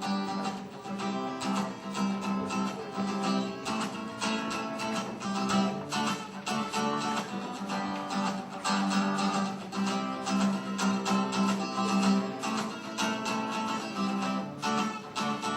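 Acoustic guitar playing the instrumental intro of a song, picked and strummed notes in a steady rhythm.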